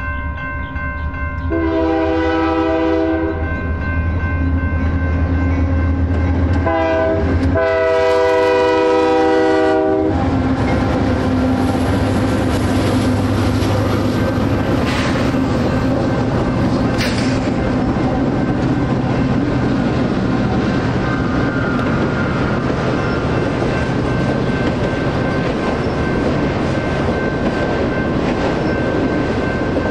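Union Pacific diesel locomotive horn sounding three blasts (long, short, long) as the train reaches a grade crossing, over the crossing's steadily ringing electronic bell. About ten seconds in, the locomotives pass with their diesel engines running, followed by the rumble and clickety-clack of autorack cars rolling across the crossing.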